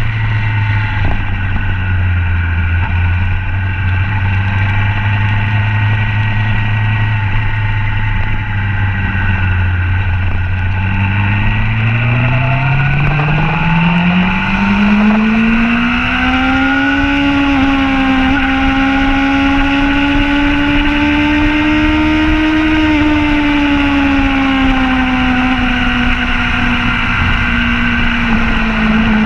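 Motorcycle engine at speed on a track, with wind rush. It holds steady revs for about ten seconds, then climbs smoothly in pitch over several seconds under acceleration, and stays high before easing off slightly near the end.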